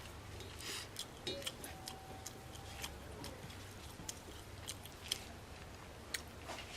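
Person eating a meal: scattered small clicks and smacks of chewing, irregular and of differing strength, over a low steady hum.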